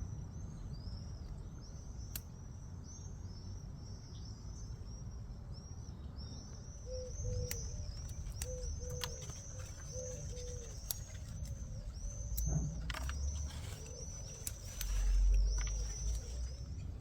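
Birds singing outdoors: one bird repeats short high chirps in a quick unbroken run, while a second, lower-voiced bird gives short paired calls for a few seconds in the middle. A low rumble runs underneath, with a few light clicks and a dull thump near the end.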